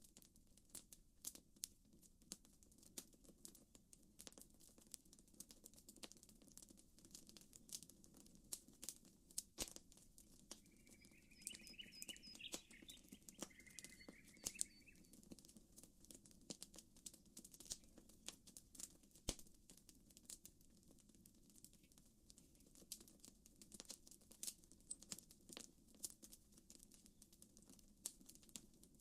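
Faint campfire crackling: irregular sharp pops and snaps from burning wood over a low steady hiss. A bird chirps several times about halfway through.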